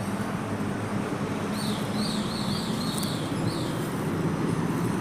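Steady low rumble of road traffic, with a bird giving a quick run of about six short high chirps in the middle.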